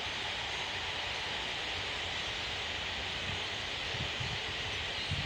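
Steady massed chatter of a huge flock of birds calling together in the trees, thousands of voices blurring into one continuous high noise.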